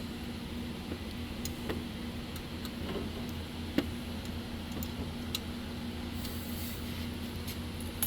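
Sparse light metallic clicks of 10 mm open-end wrenches on nuts as two nuts on a carburetor mounting stud are locked against each other, over a steady low hum.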